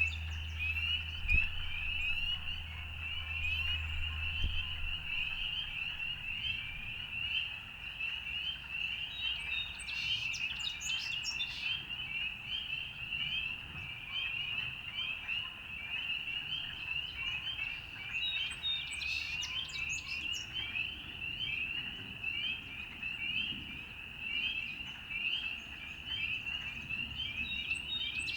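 A dense, continuous chorus of calling frogs: many short, rising calls overlapping at one high pitch. Brief bird chirps break in twice, around ten seconds in and again around nineteen seconds in.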